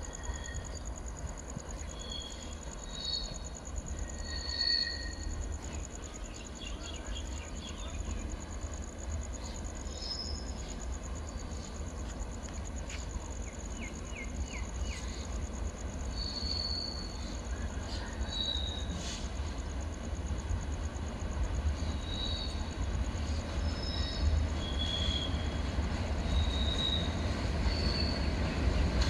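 Dhumketu Express passenger train approaching, its low rumble slowly growing louder toward the end, with short high chirps scattered throughout.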